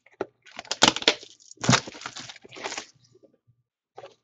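Trading cards and their plastic packaging being handled, making several short crackling, rustling noises in the first three seconds.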